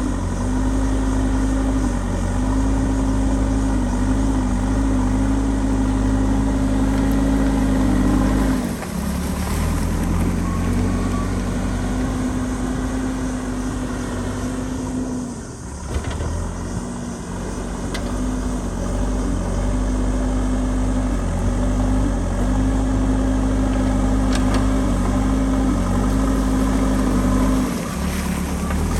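Diesel engine of a JCB backhoe loader running under changing load while it digs and clears dirt. The engine note shifts up and down in small steps and dips briefly three times.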